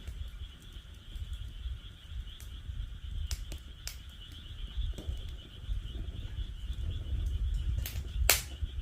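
Wood fire in a fire pit stand crackling, with scattered sharp pops, the loudest near the end, over a low rumble from the flames. Behind it a steady pulsing chorus of frogs calling.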